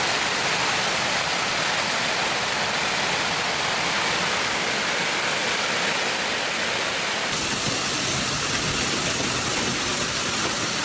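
Heavy torrential rain pouring down in a steady, even hiss, with a brighter, hissier tone from about seven seconds in.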